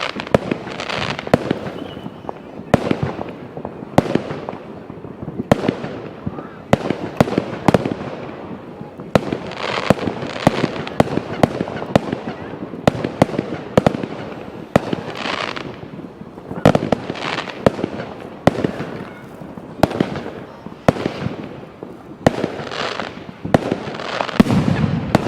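Many fireworks going off at once: a dense, irregular run of sharp bangs, several a second, over continuous crackling and hissing.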